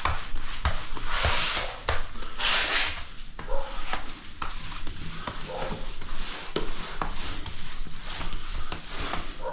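Grout being rubbed and wiped across ceramic tiles in irregular scraping strokes, with small clicks and knocks. The grout is being worked off while still fresh, before it gets harder to wipe away. Two louder scraping strokes come in the first three seconds.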